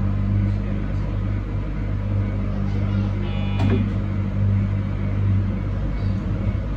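JR Hakodate Main Line train running, heard from the cab: a steady low hum with running noise, and a brief high-pitched tone ending in a sharp click about three and a half seconds in.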